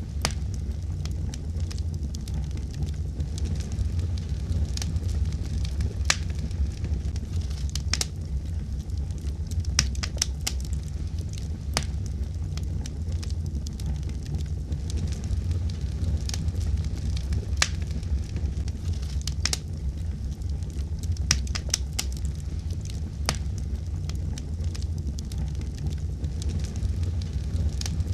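Wood fire burning in a fireplace: a steady low rumble of flames with sharp, irregular crackles and pops.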